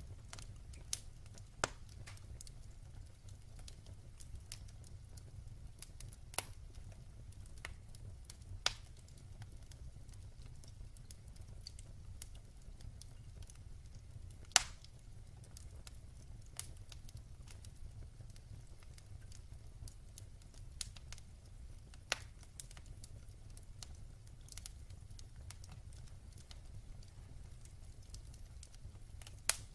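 Wood fire burning in a fireplace: a low steady rumble of the flames with irregular sharp pops and crackles of burning wood, the loudest pop about halfway through.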